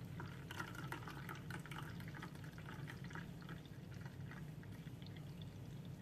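Faint trickling and dripping of juice, over a steady low hum.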